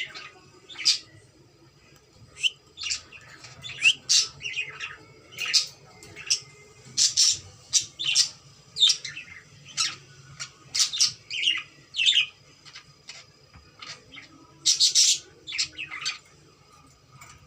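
Cockatiel chirping and squawking in short, shrill calls, one or two a second in an irregular run, with a short lull about a second in.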